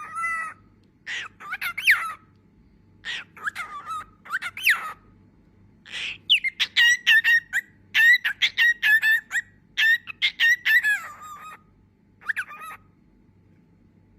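Cockatiel whistling and chirping: bouts of quick repeated notes and rising-and-falling whistles, with short pauses between.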